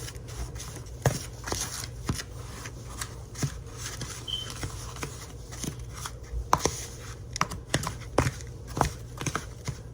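A spoon stirring and scraping a snow ice cream mixture in a bowl: irregular scrapes and clicks. A single brief high beep sounds about four seconds in.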